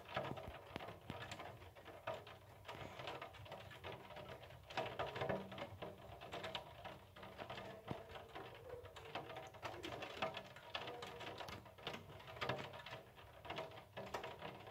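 Rain during a thunderstorm, with many raindrops tapping irregularly on window glass close by.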